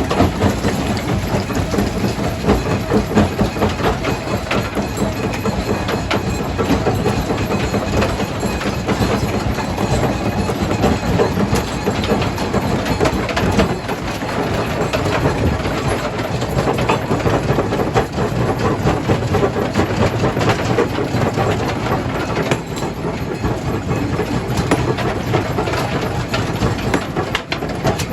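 Stone jaw crusher running under load, crushing rock: a continuous heavy clatter of knocking, breaking stone over a steady low machine hum.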